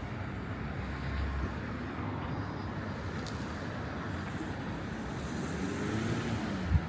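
City street ambience: steady traffic noise with a low rumble, and a short thump near the end.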